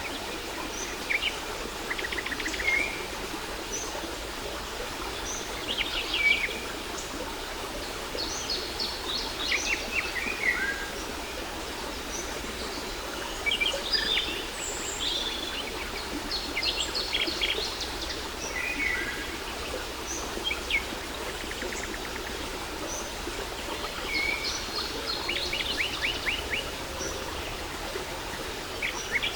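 Steady sound of a waterfall's falling water, with several songbirds calling over it: short chirps and quick trills, repeated every second or two.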